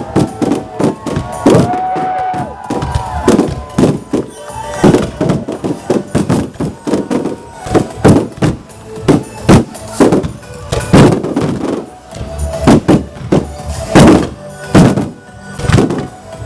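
Fireworks going off in a rapid, irregular string of sharp bangs, mixed with music.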